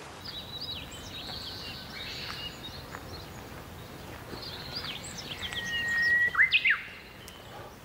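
Songbirds chirping and twittering in short quick notes over a faint steady outdoor background. About five seconds in, one bird whistles a long steady note followed by a few sharp rising notes, the loudest sounds here.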